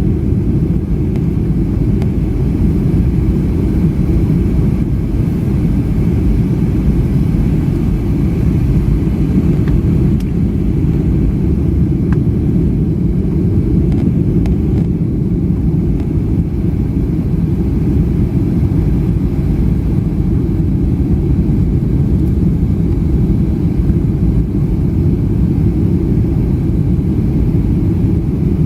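Steady, even low rumble of a Boeing 757-300's engines and airflow, heard inside the passenger cabin.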